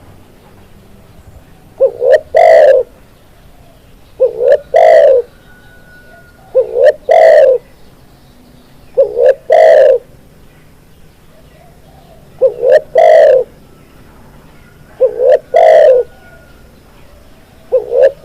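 Spotted dove (tekukur) cooing. It repeats the same phrase about every two and a half seconds: two short notes, then a longer, louder note.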